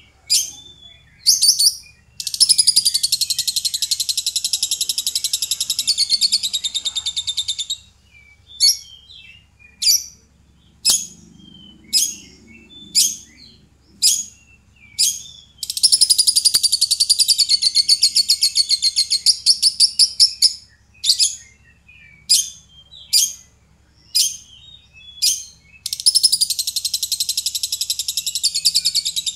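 Lovebird calling: short, sharp, high chirps one or two a second, broken three times by a long, rapid, chattering trill lasting five to six seconds.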